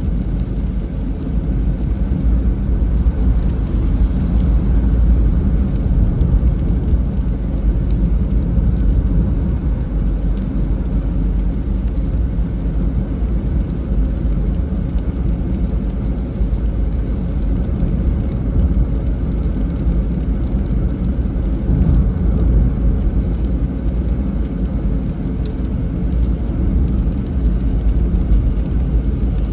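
Steady low rumble of a car driving on a rain-wet road, tyre and engine noise, with a faint hiss above it.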